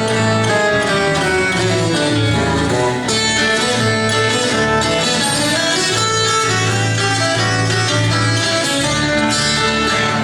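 Instrumental introduction of a Brazilian caipira country song, played live on plucked acoustic guitars with steady low bass notes, before any singing.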